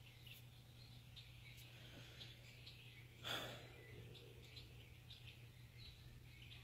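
Near silence with faint, scattered high chirps of small birds, over a low steady hum. About three seconds in there is one brief, louder rush of noise.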